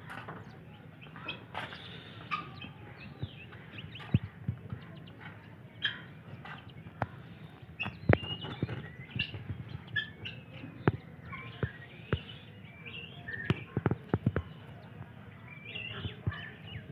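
Many small birds chirping and calling in short, overlapping notes, with scattered sharp clicks.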